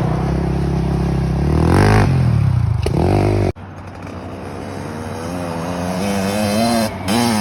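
Small dirt bike engine revving, its pitch climbing and dropping back. About three and a half seconds in the sound cuts abruptly to a quieter stretch where the engine's pitch rises steadily as it accelerates.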